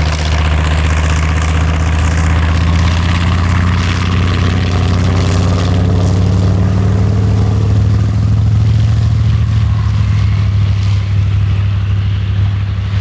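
Grumman TBM Avenger's Wright R-2600 fourteen-cylinder radial engine running steadily with a deep drone; the pitch rises slightly partway through.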